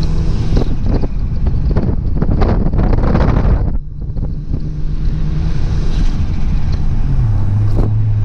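Turbocharged 4.0-litre Barra inline-six of a Ford Falcon FG running on the road, building up under throttle and then cutting off suddenly about four seconds in as the driver lifts. It then cruises at a lower, steadier note that drops in pitch near the end, with wind noise on the microphone.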